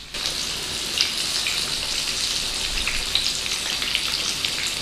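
Panko-breaded chicken breasts shallow-frying in hot oil in a pan: a steady sizzle with scattered crackles and pops. The sizzle comes in suddenly louder just as it begins.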